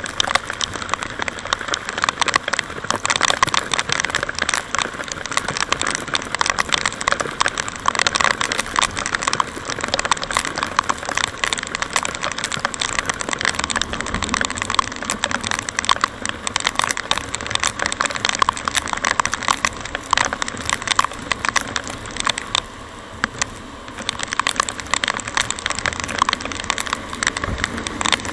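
Heavy rain striking the microphone on a moving motorcycle: a dense, continuous crackle of drops, easing briefly about 23 seconds in.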